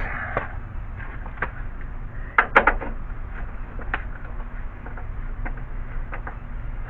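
Scattered light clicks and knocks of tools and metal parts being handled, with a cluster of sharper knocks about two and a half seconds in, over a steady low background hum.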